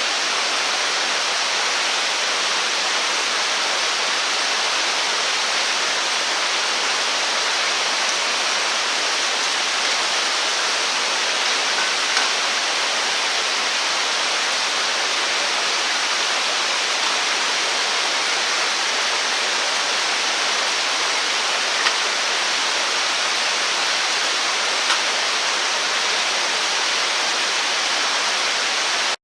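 Steady rushing of running water, with a few faint ticks about 12, 22 and 25 seconds in.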